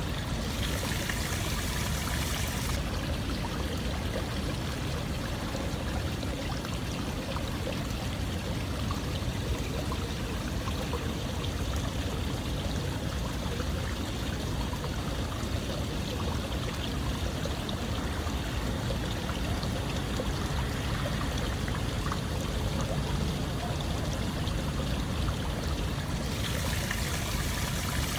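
Running water making a steady rushing, splashing noise, with a brighter hiss for a couple of seconds near the start and again near the end.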